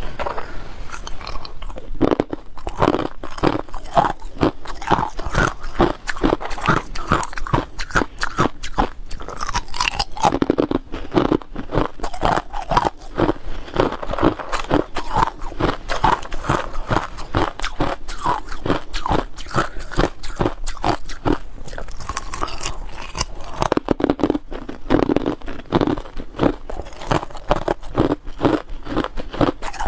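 A person biting and chewing ice, with a steady run of loud, crisp crunches several times a second.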